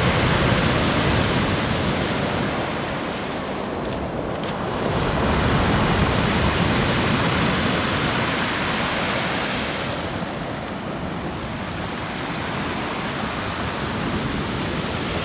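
Stormy sea surf: large waves breaking and rushing on the shore, swelling twice, with wind on the microphone.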